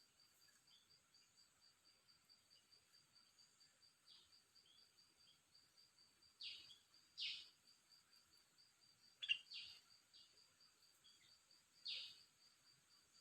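A few short, faint calls from a caged songbird, spaced out: a pair about halfway through, two more a little later, and one near the end. Under them runs a faint, steady, pulsing high-pitched whirr.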